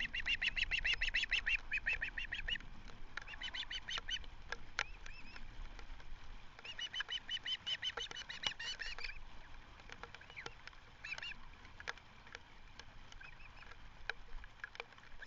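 Ospreys calling: rapid runs of short, high whistled notes repeated several times a second, in three main bursts with a few single calls between.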